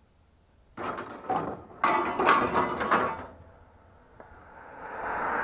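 A couple of seconds of mechanical rattling and clattering, then the rising hiss of a vehicle approaching on the road.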